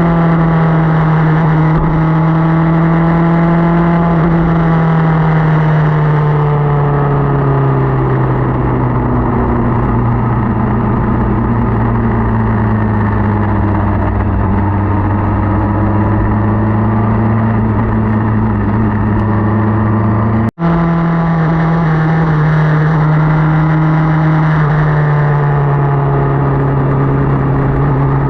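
Motorcycle engine running under way with wind and road noise; its note slowly falls over about twenty seconds, a moment of silence breaks the sound about two-thirds through, and then the note is higher again and falls once more near the end.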